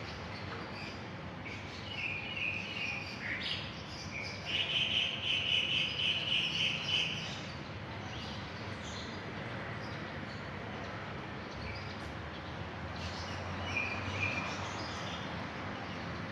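Small birds chirping in quick twittering runs, the longest and loudest about four to seven seconds in and a short one near the end, over steady outdoor background noise.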